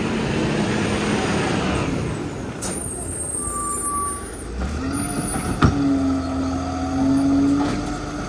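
Garbage truck at work: a rushing hiss early on, a short high air hiss a little under three seconds in, a sharp clunk past the middle, then a steady whine that holds to the end.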